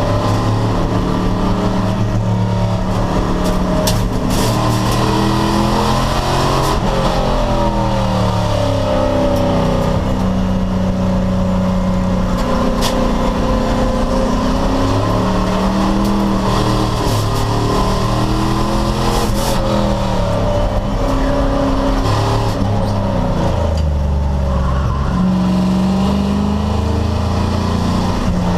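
American Sedan class V8 race car engine under hard load on track: its pitch climbs and falls repeatedly as it accelerates, shifts and slows for corners, with a lower, steadier note near the end.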